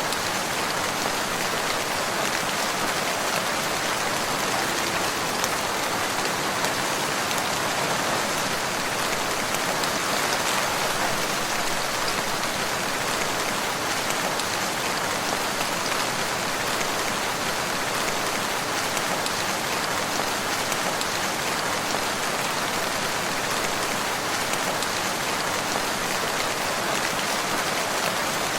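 Steady rain falling on surfaces, a dense, even patter of drops without a break.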